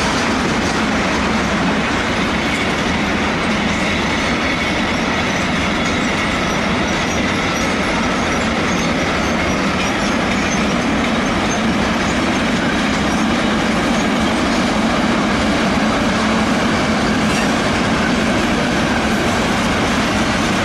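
Mixed freight train of covered wagons and tank wagons rolling past, a loud, steady, unbroken noise of wheels on rails.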